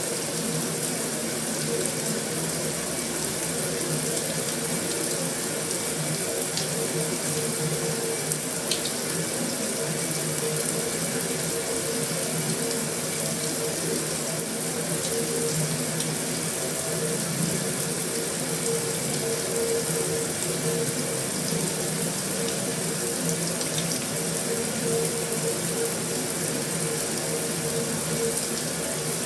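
Heavy rain falling steadily on a metal roof: a dense, even hiss with the odd separate drop ticking out of it.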